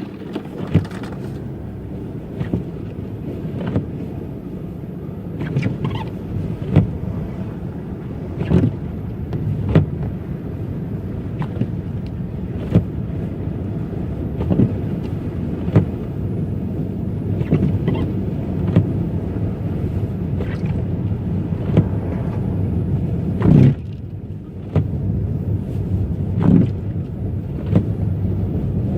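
Car driving on a snowy road: a steady low road rumble, with a short thump about every one to two seconds.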